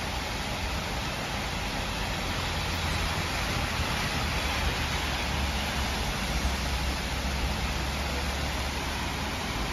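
Heavy rain falling steadily, with a low rumble that swells from about four seconds in and fades near the end.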